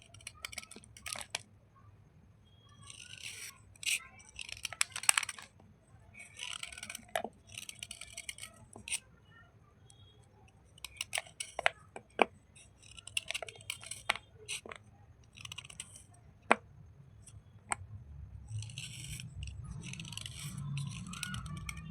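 Slate pencil bars and chips being crushed and crumbled by hand: irregular bursts of crisp crackling crunches with sharp snaps and clicks between them.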